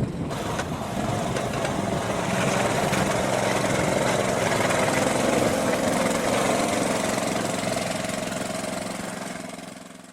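Small engine of a Muck-Truck motorised wheelbarrow running steadily, fading out near the end.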